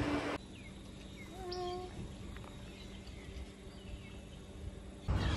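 Faint outdoor ambience with birds: a few short chirps and one longer, slightly wavering call about a second and a half in. A louder rush of open-air noise sits at the very start and cuts back in near the end.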